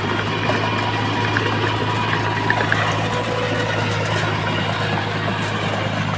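Heavy construction machine's diesel engine running steadily, a constant low hum under a dense mechanical noise.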